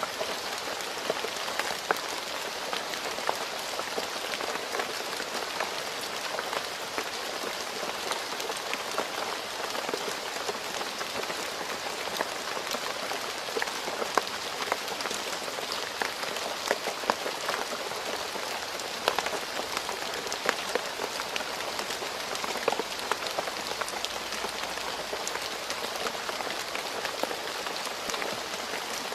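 Steady rain falling on a road surface: a constant hiss dotted with many sharp drips and splashes.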